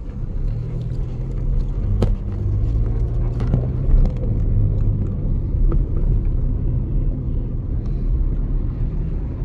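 Car driving, heard from inside the cabin: a steady low engine and road rumble, with a few faint knocks.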